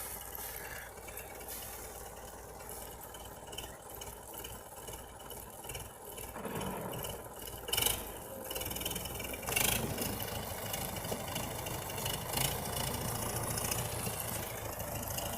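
Tractor engine running at idle with rattling, growing louder about six seconds in, with a few short clanks.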